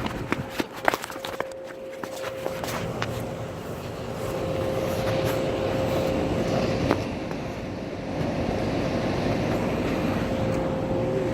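Toy monster truck's small electric motor running with a steady whine over a rattle of wheels and body, with a few sharp clicks in the first couple of seconds.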